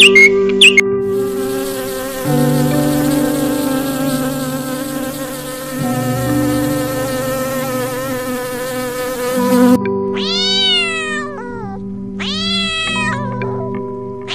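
Honeybees buzzing steadily for about eight seconds, then a cat meowing twice in long, rising-and-falling meows, with a third meow starting at the very end. Soft background music plays underneath.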